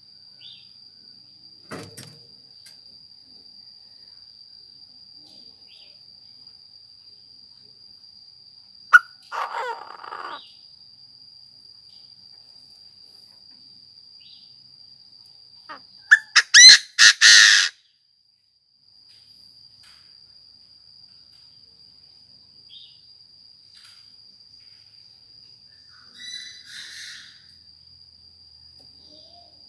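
Chinese francolin calling: harsh bursts of rapid repeated notes, heard three times, the middle one loudest, over a steady high tone.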